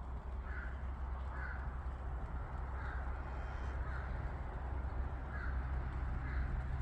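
A bird giving short, repeated calls, roughly one a second, over a steady low rumble.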